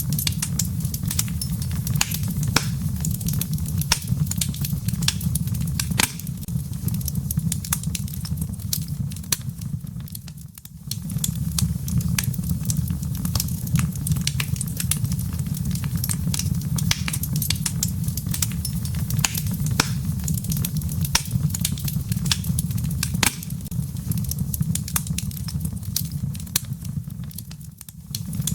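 Wood fire in a fireplace crackling: a steady low rumble of flames with frequent sharp pops and snaps from the embers. The rumble briefly fades about ten seconds in and again near the end.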